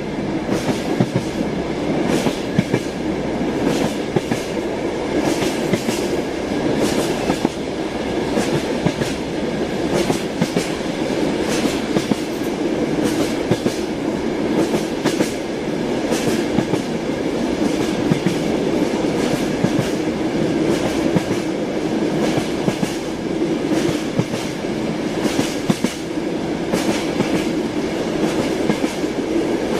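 Train wheels clattering over rail joints: a steady running rumble broken by frequent, irregular clicks throughout.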